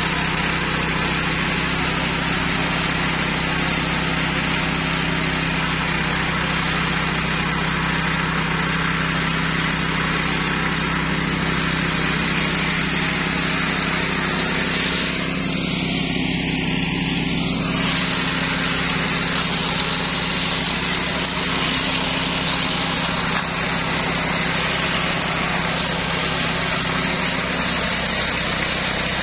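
Homemade flail mower with a 13 HP engine running steadily at a constant speed.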